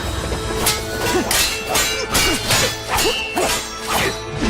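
Sword-fight sound effects: a quick run of blade swishes and metallic clangs, about two to three a second, each swish falling in pitch, over held notes of background music.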